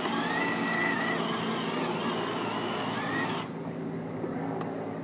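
Electric motor and gearbox of a battery-powered ride-on toy car whining as it drives, then stopping about three and a half seconds in.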